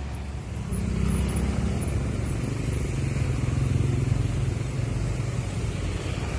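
A road vehicle's engine running with a low hum. Its pitch steps up about a second in and then holds steady.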